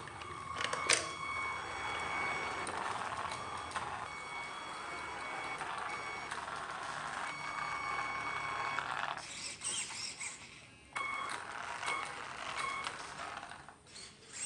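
Xinlehong 9125 RC monster truck's dual electric motors and gears whining as it drives, with a sharp click about a second in. The whine cuts off about nine seconds in, then comes back in short bursts of throttle.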